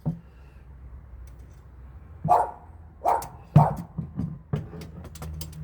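A dog barking: three short barks in the middle, followed by a few fainter ones, over a low steady hum.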